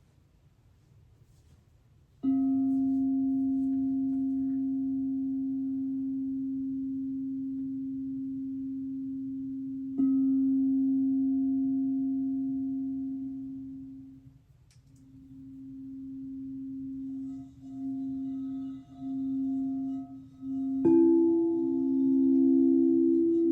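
Singing bowls in a sound bath. A low-pitched bowl is struck about two seconds in and rings out slowly, is struck again about ten seconds in, then its tone wavers, swelling and fading. Near the end a second, higher-pitched bowl is struck and rings with it.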